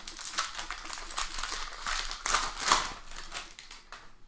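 Crinkling of a foil trading-card pack wrapper and cards being handled in a quick run of short rustles, easing off near the end.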